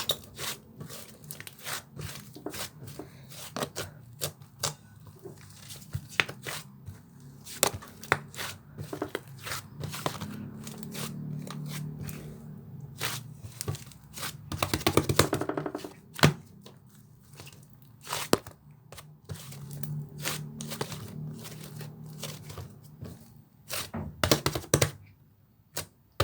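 Slime being squeezed, poked and stretched by hand, giving irregular sticky clicks and pops, with a dense flurry of rapid clicks about halfway through.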